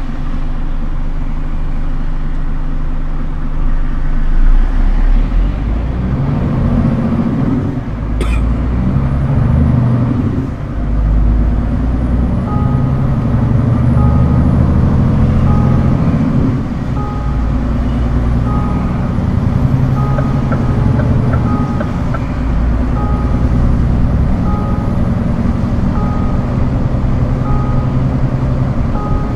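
Scania R410 truck's diesel engine running and pulling harder a few seconds in, with a sharp click or hiss just after 8 s. From about 12 s a reversing alarm beeps about once a second as the truck backs up.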